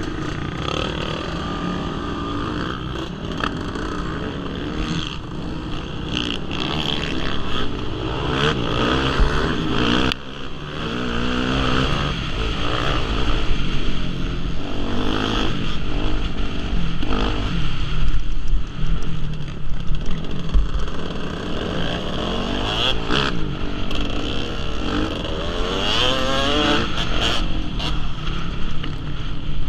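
Motocross bike engines revving, the pitch rising and falling again and again as the throttle is opened and closed.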